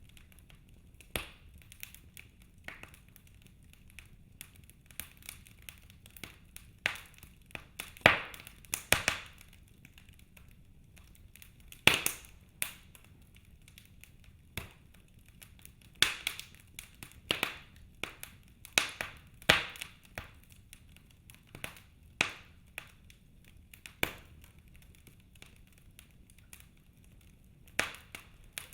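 Wood fire in a fireplace crackling, with irregular sharp pops and snaps over a quiet hiss; the loudest snaps come about 8 and 12 seconds in.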